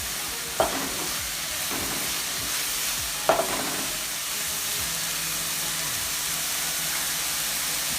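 Chopped onions sizzling steadily as they fry in coconut oil in a pan, stirred with a spoon that knocks against the pan three times in the first half.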